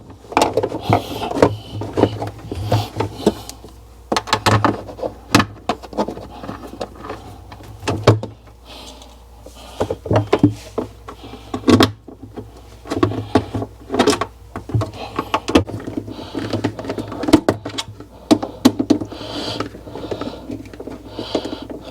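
Screws being refitted and metal refrigerator panel parts handled: irregular clicks, rattles and short bursts of clatter, over a steady low hum.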